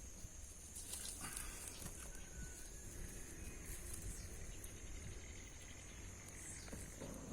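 Outdoor ambience: a steady high-pitched insect drone over a constant low rumble, with a few faint clicks.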